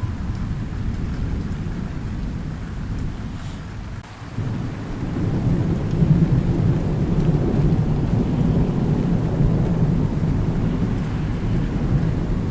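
Thunderstorm: steady rain with rolling thunder. The rumble fades to a brief lull about four seconds in, then a new long roll of thunder swells up and keeps rumbling.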